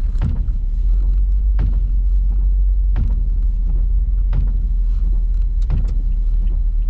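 Steady low rumble of a car on the move, heard from the cabin, with a short knock about every second and a half.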